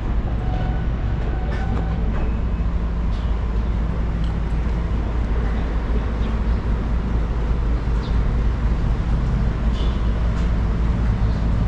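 Steady low rumble of a moving vehicle, with an even engine-like hum.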